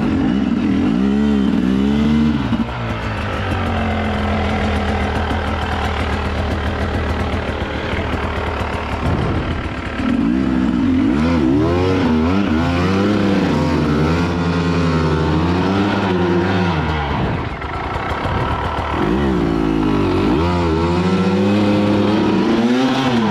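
Dirt bike engine running and being revved again and again, its pitch swinging up and down in bursts, with a steadier stretch early on, as the bike is worked through a slippery, muddy trail section.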